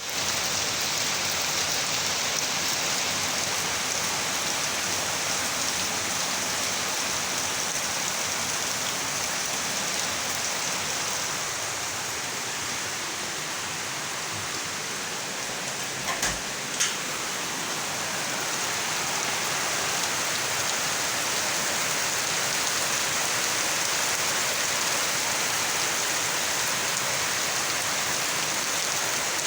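Heavy rain pouring steadily, with a couple of brief sharp knocks about halfway through.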